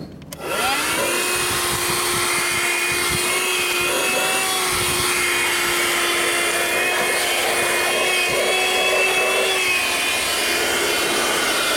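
Audew 12V DC handheld car vacuum cleaner switched on about half a second in, its motor whine rising as it spins up and then running steadily with a rushing hiss of air. The pitch drops slightly near the end.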